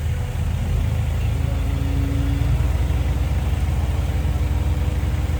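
Diesel engine of a Komatsu D20P bulldozer running steadily under work, a deep rumble of rapid even pulses. A faint steady whine joins a little over a second in.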